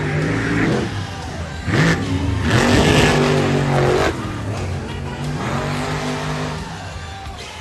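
Monster truck engines revving hard, pitch climbing and falling, with louder surges of throttle about two seconds in and again from about two and a half to four seconds in.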